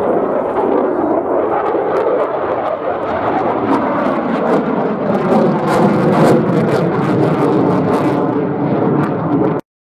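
Aircraft flying past, a loud steady rushing engine noise, which cuts off abruptly near the end.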